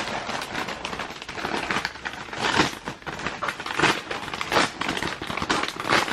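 Packaging being handled and opened: irregular crinkling and rustling, with louder rips and scrunches every second or so.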